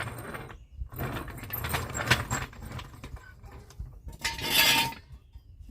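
Irregular metallic clinking and rustling of things being handled, with a short, louder scraping hiss about four and a half seconds in.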